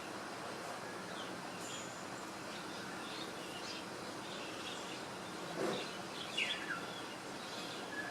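Small swiftlet-like bird chirping: short high chirps scattered throughout, with a louder cluster including a falling note about six and a half seconds in, over steady background noise. A brief louder low sound comes just before that cluster.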